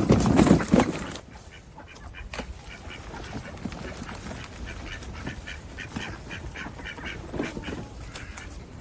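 Ducks quacking in a quick, chattering run of short calls, after a loud noisy burst in the first second.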